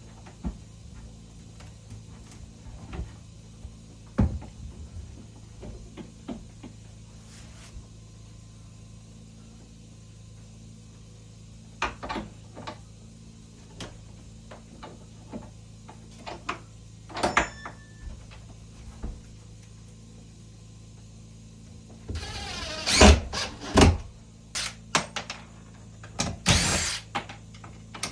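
Scattered knocks and thunks of a heavy wooden door being handled and fitted into its frame, over a steady low hum. In the last six seconds comes a louder stretch of rubbing noise with several heavy thuds.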